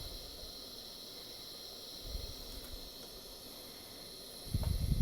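Lit butane gas soldering iron hissing steadily as it burns, with low handling bumps about two seconds in and a louder one near the end.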